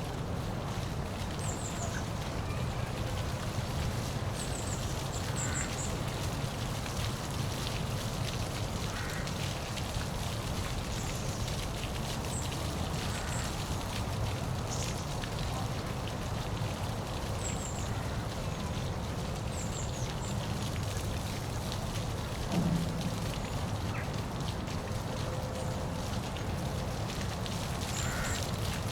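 Steady rush of a waterfall, with short high bird chirps every few seconds and a brief low thud about two-thirds of the way through.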